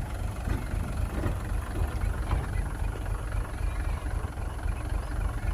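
Heavy earthmoving machine's diesel engine running with a steady low rumble.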